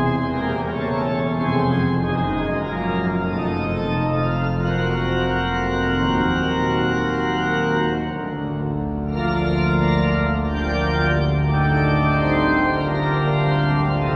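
Organ music: slow sustained chords that move to a new chord every second or two.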